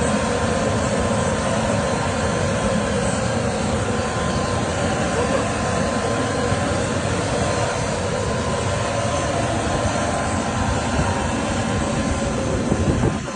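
Jet aircraft engines running steadily: a dense, unbroken noise with a faint steady whine.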